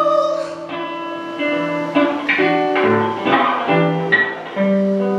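Acoustic guitar played in a slow instrumental passage between sung lines: single plucked notes and chords, each left ringing.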